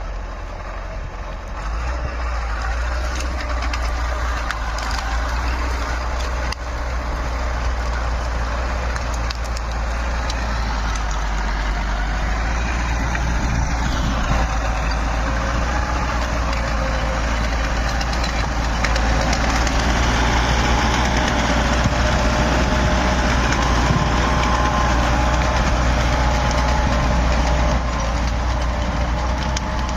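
DT-75 crawler tractor's diesel engine running steadily under a deep low hum. It gets louder at about 2 s and a little louder again in the second half, when a faint whine joins it.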